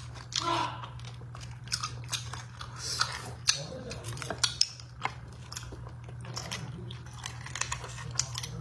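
Close-miked chewing of beef bone marrow, with many sharp wet clicks and smacks of the mouth, and the tap and scrape of a thin metal utensil against the marrow bones.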